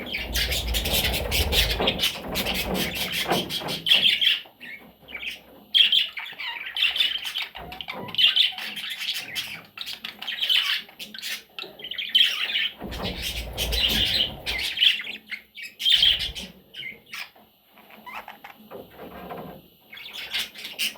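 Budgerigar chattering in a fast, scratchy warble of clicks, chirps and short squawks that breaks off and resumes repeatedly. A low rumble sounds briefly at the start and again about two-thirds of the way through.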